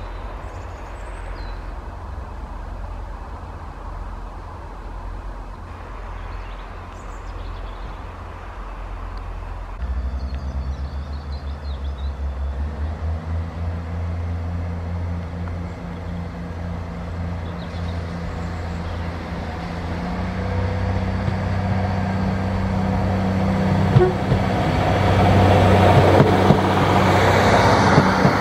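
Diesel multiple unit train approaching along the line, its engine drone growing steadily louder from about ten seconds in, then passing close with a rising rush of wheel and rail noise and a sharp click in the last few seconds.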